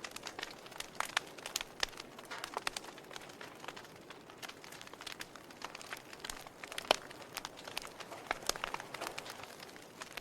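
Wood fire burning in a fireplace: a soft steady hiss with frequent irregular crackles and pops, the loudest pop about seven seconds in.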